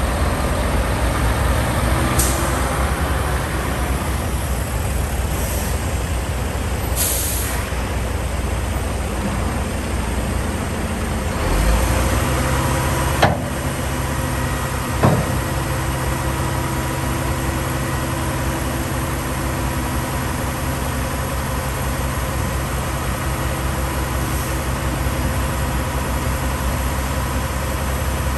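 Diesel engine of a 1998 Kenworth T800 tri-axle dump truck running steadily at idle, with a few short hisses of air releasing from the air brake system. Its engine note shifts a little before halfway through, and two sharp clacks follow soon after.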